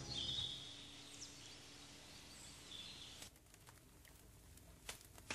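Faint bird chirps: two short high calls a couple of seconds apart over a low hiss, as music fades out at the start. The background drops away abruptly a little after three seconds, and a couple of soft clicks follow near the end.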